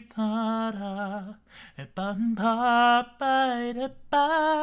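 A man singing a slow melody in long held notes with vibrato, several phrases with brief breaths between them and the pitch climbing in the later notes; no clear words.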